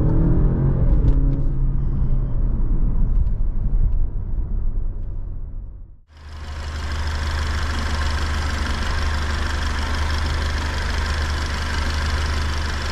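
Alfa Romeo Giulia Veloce's 2.0-litre turbocharged four-cylinder heard from inside the cabin while driving, its pitch falling early on as the car eases off. After a sudden cut about halfway through, the engine runs at a steady speed, heard close up at the open engine bay with a strong hiss over a steady low note.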